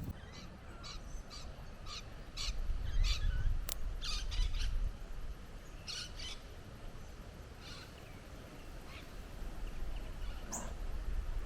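Birds calling outdoors: a scattered series of short, high chirping calls, over a low rumble.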